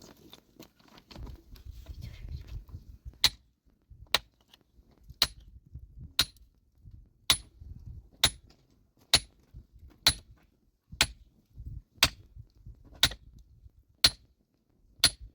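A metal tool striking rock to break it, thirteen sharp blows at a steady pace of about one a second, starting about three seconds in. Low rumbling noise runs beneath and fills the first few seconds before the blows.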